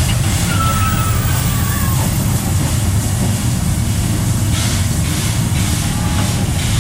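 Steady low rumble of a passenger carriage running behind steam locomotive 3016, heard from the carriage. A faint squeal slides through it in the first two seconds, and a run of short rushing beats comes in the second half.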